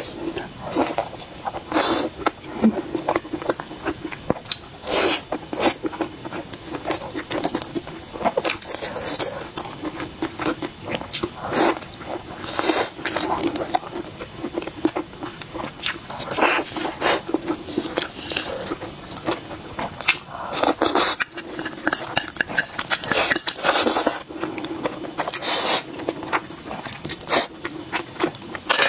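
Close-miked eating: biting and chewing with irregular sharp crunches and wet mouth clicks, about one every second or two.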